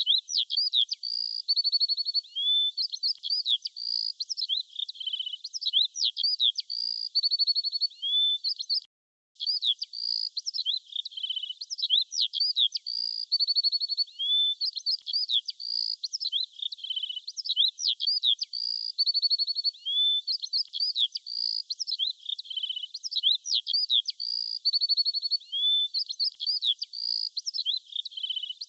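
Birdsong: high chirps, rising and falling whistles and short rapid trills, the same sequence repeating over and over like a loop, with a brief break about nine seconds in.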